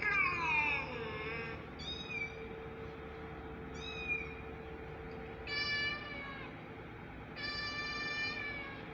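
Cat meowing, a string of about five meows. A long falling meow comes first, then two short high calls, then two longer meows held at a steady pitch near the end.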